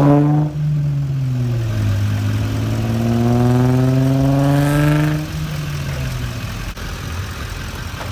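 Car engine revving through its exhaust. One rev falls away just after the start, a second climbs in pitch for about three seconds and drops off about five seconds in, and then the engine settles to a lower running sound.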